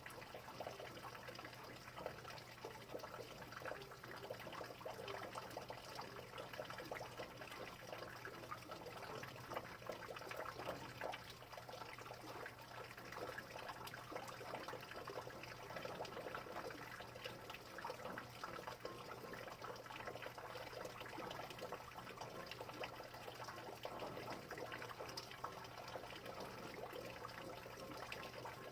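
Steady rain, with many small drops pattering and water trickling, and a faint low hum underneath.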